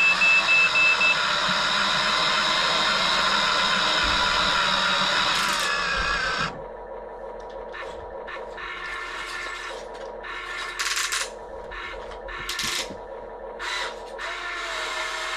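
RC excavator's electric drive motors whining steadily for about six seconds, then cutting out sharply. Quieter, intermittent scraping and rattling follows, like the bucket working through plastic Lego bricks.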